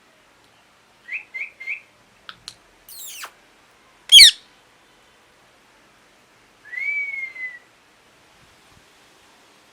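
Indian ringneck parrot calling: three quick chirps, a couple of short clicks, then one loud, sharp call about four seconds in, and a single longer call that falls slightly in pitch near the end.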